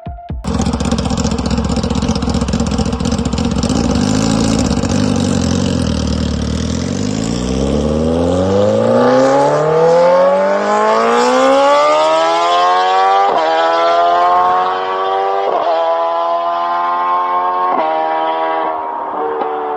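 BMW S1000RR superbike's inline-four engine accelerating hard. It starts as a low, rough rumble, then the pitch climbs steeply and the bike shifts up three times; each quick gear change briefly dips the pitch before it climbs again.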